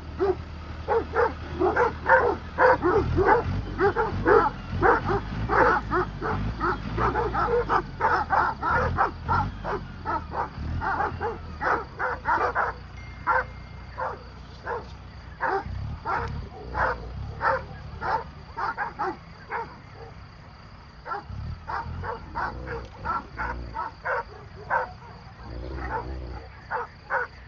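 Akbash guard dogs barking hard and fast, several barks a second, thinning to scattered barks in the second half, over the steady low hum of a running tractor engine.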